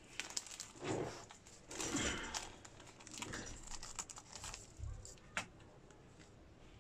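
Irregular crinkling and rustling from something being handled, with a few sharp clicks, the clearest about five seconds in.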